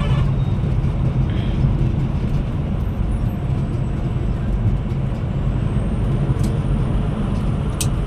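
Scania Metrolink multi-axle coach running, a steady low engine and road rumble heard from inside the cabin, with two brief clicks near the end.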